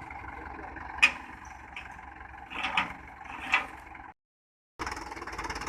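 Diesel tractor engine running steadily, with a sharp knock about a second in and a few clanks a little later. The sound cuts out completely for about half a second, then another engine is running.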